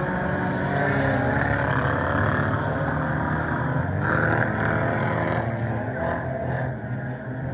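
Scramble race car engines running at speed around the track, a steady mixed engine drone that thins out a little after five seconds in.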